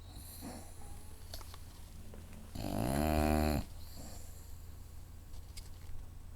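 Bulldog snoring loud while asleep: one long, pitched snore about halfway through, lasting about a second, with quieter breathing around it.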